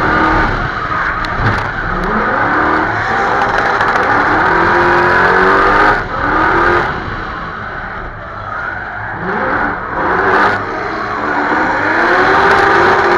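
Supercharged Audi 4.2 V8 drift car engine revving hard on a drift run, its pitch climbing and falling repeatedly, with short drops about six and ten seconds in.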